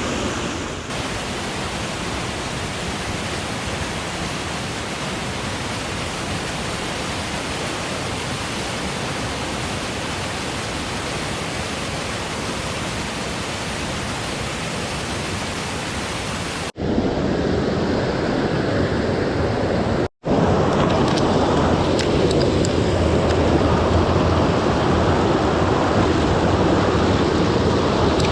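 Rushing mountain stream water, a steady hiss and rumble with no pauses. It cuts off abruptly twice about two-thirds of the way through, and after the second cut the water is louder and deeper.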